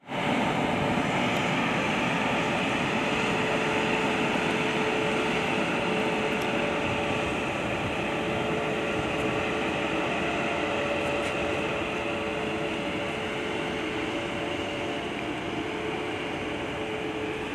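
Steady running noise of a passenger train heard from on board, a constant rush with a few steady humming tones, slowly getting quieter as the train eases into the station.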